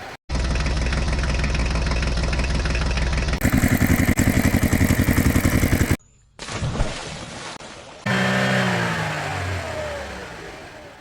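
A string of cartoon vehicle engine sound effects, cut abruptly one after another: an engine running steadily, then a louder, fast-chugging engine, and after a brief break an engine whose pitch falls slowly as it winds down.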